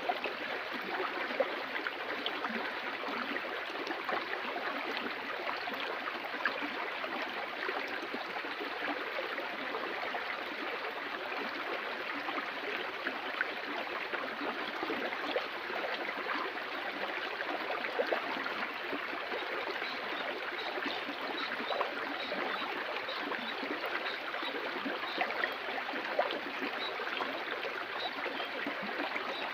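Water of a stream flowing and splashing steadily. A faint, high, repeated chirp joins in for the second half.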